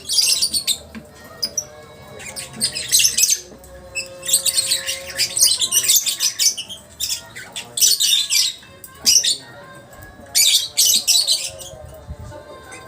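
Lovebird giving its long chattering 'ngekek' call: harsh, shrill squawking bursts about a second or two long, repeated several times with short gaps. Faint steady tones of background music lie beneath.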